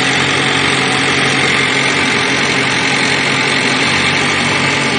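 2013 Chevrolet Malibu's 2.5-litre four-cylinder engine idling steadily, just after starting and warming up.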